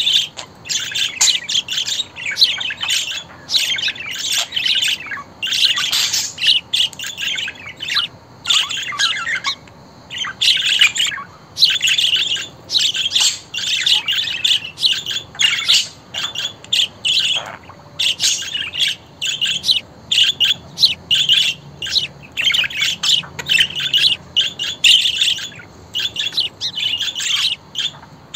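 Budgerigar chatter: a rapid, nearly continuous run of short chirps, warbles and squawks, broken by a few brief pauses.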